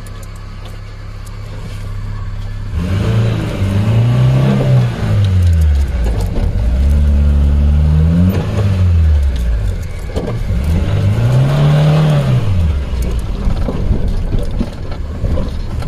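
Maruti Gypsy's four-cylinder petrol engine idling, then revved up and eased off three times, a few seconds each, while working the vehicle free from sandy soil it is stuck in, running in two-wheel drive with its 4x4 not engaged.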